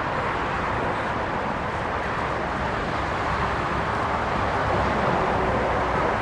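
Jet engine noise from the McDonnell Douglas MD-11F's General Electric CF6 turbofans: a steady roar that swells slightly past the middle.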